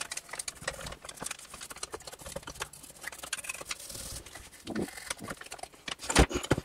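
Toothbrush scrubbing and scraping caked dirt off a miter saw's housing, with irregular taps and knocks as the saw is handled; a couple of louder knocks near the end.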